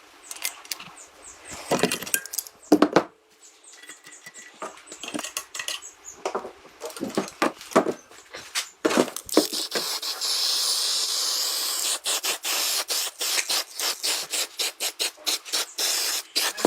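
Workshop tool noises: scattered clicks and scrapes, then from about halfway a steady high hiss with quick ticking over it.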